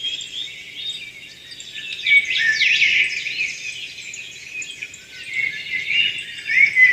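Small birds chirping and singing, several overlapping quick, high, sliding calls.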